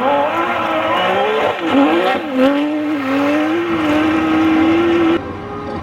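Porsche 911 GT3 RS flat-six engine at high revs under hard acceleration, its pitch dropping briefly a couple of times around two seconds in as the throttle is lifted or gears are changed, then climbing steadily. The engine sound cuts off suddenly near the end.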